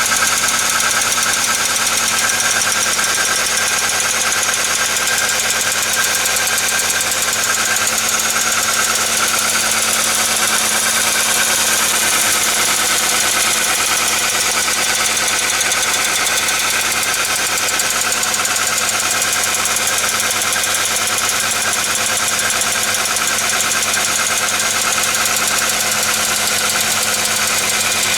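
Hyundai/Kia G4ED 1.6-litre four-cylinder engine running steadily, with a fast, even tapping knock from the valvetrain. It is very like a hydraulic lash adjuster (lifter) knock, and the mechanic thinks a lifter has failed, though he is not 100% sure.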